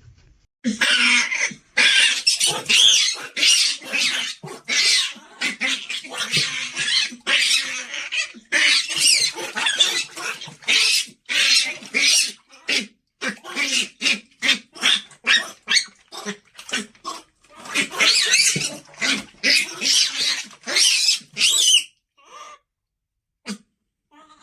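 Monkey screeching: a long run of harsh, high squeals, one after another, breaking off shortly before the end.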